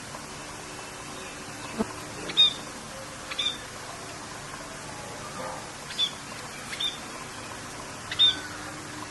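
Birds giving short, sharp chirping calls, about five in all, spaced a second or two apart, over a steady hiss of rain.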